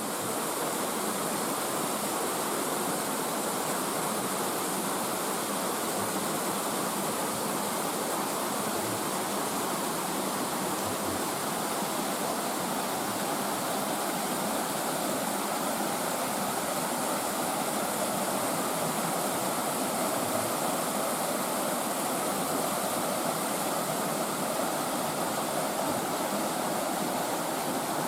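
Mountain stream pouring over a run of small waterfalls on bare rock: a steady, even rush of water.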